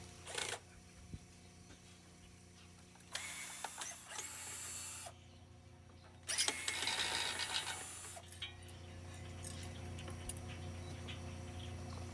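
Tool work on a ceiling fan being taken apart: two mechanical bursts of about two seconds each, with a short click near the start.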